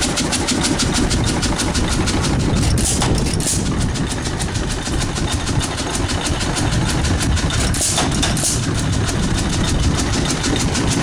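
1914 Hercules 5 hp model E hit-and-miss stationary engine running on its stock governor: a steady rapid beat of about five clicks a second over a low rumble, with a few louder beats about three seconds in and again near eight seconds.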